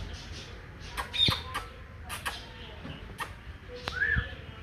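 Green ringneck parakeet giving a few short squawks among sharp clicks; the loudest comes about a second in, and a short call that rises and falls comes near the end.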